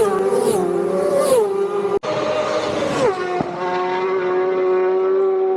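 Racing motorcycle engines at full throttle passing flat out, the engine note dropping in pitch as each bike goes by, then holding a steady high note. A brief break in the sound about two seconds in.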